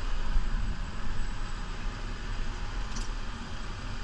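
New Holland Powerstar 75 tractor's diesel engine running steadily while plowing snow, a continuous low rumble with a hiss over it. There is one short click about three seconds in.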